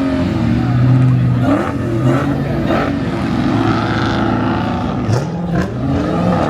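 Supercharged V8 engines of Dodge Hellcats rolling past at low speed, running steadily with the engine note dipping and rising slightly a couple of times.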